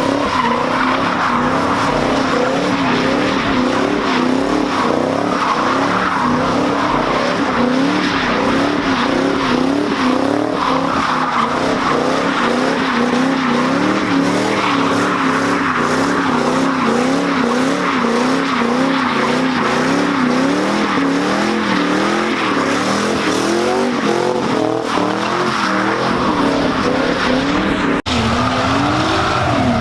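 A car engine revving up and down in quick, regular swells while its tyres squeal and skid, as a car spins donuts. The sound breaks off for a moment near the end, then carries on.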